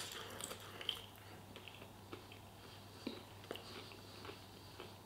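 Faint chewing of a mouthful of chicken, with small mouth clicks and smacks now and then.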